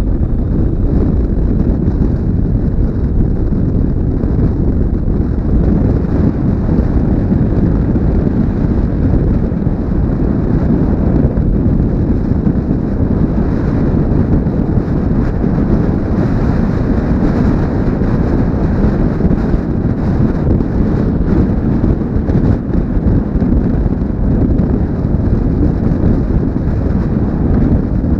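Wind buffeting a helmet-mounted GoPro's microphone on a moving motorcycle: a steady, loud, low rumble of wind and road noise, with the motorcycle's running mixed in underneath.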